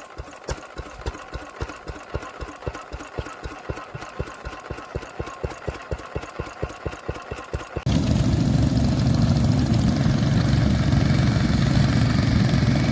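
Vintage engine running slowly with an even beat of about four to five firing knocks a second. About eight seconds in it cuts abruptly to a much louder, steady low engine rumble.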